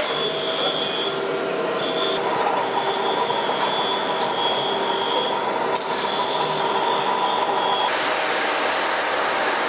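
Log rounding machine running, its cutters working a log: a steady whine over a rasping noise. The sound changes abruptly about two, six and eight seconds in.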